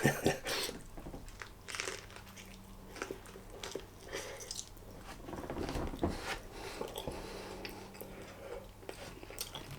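A person chewing a mouthful of chicken and lettuce wrap, with faint irregular crunches and mouth clicks.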